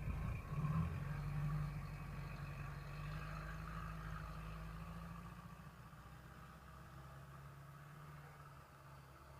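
A vehicle engine running steadily, growing gradually fainter through the second half.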